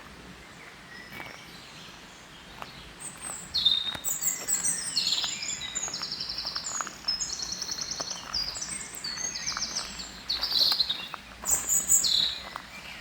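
Songbirds singing: after a few quiet seconds, a long run of high, rapid phrases of trills and repeated chirping notes, which stops shortly before the end.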